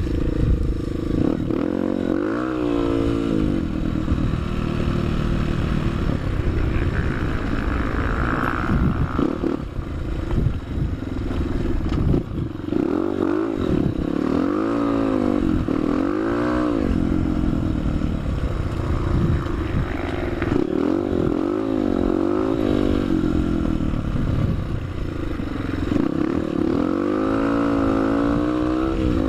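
Single-cylinder four-stroke Honda CRF trail-bike engine accelerating hard on a dirt road, its pitch climbing and dropping back again and again as the throttle is opened and the rider shifts or rolls off.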